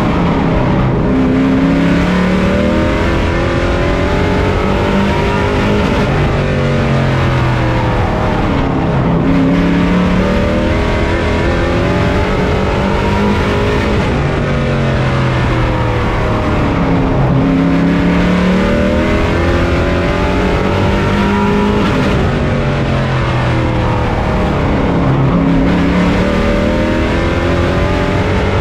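Race truck engine heard from on board, revving up and easing off over and over as it laps a short oval track: the pitch climbs on each straight and drops into each turn. Road and wind noise run steadily underneath.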